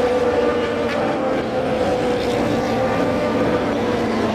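Race car engines running at speed, a steady engine note that slides slowly down in pitch.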